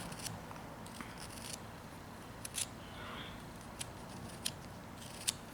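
Whittling knife cutting into a small piece of wood: a few separate short, sharp clicks as the blade slices off chips.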